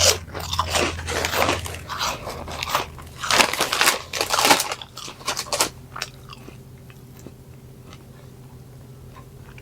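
Crunchy corn snack fries being bitten and chewed with loud, crackly crunching for about the first six seconds, then stopping.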